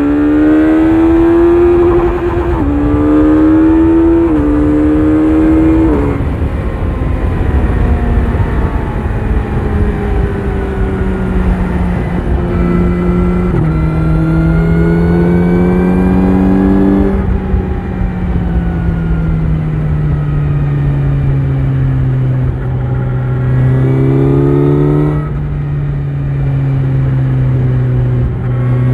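Kawasaki Z900 inline-four through an Akrapovic exhaust, accelerating hard through the gears. Its note climbs and drops back at each upshift, several times in the first few seconds. It then pulls up to a higher pitch, falls away as the throttle closes, and picks up again near the end. Steady wind rumble runs underneath.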